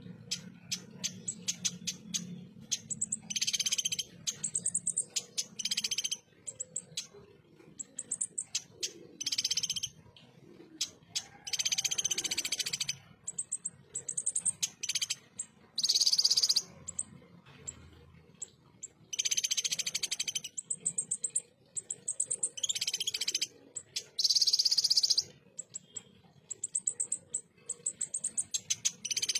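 A konin (kolibri ninja) sunbird singing its rough rapid-fire "tembakan" song: dense, very high, buzzy trills about a second long, again and again, with rows of sharp single chips between them.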